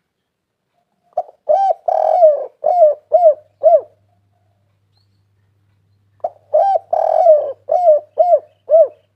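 Spotted dove cooing: two song phrases about five seconds apart, each a short opening note, a coo, one longer coo and then three short arched coos.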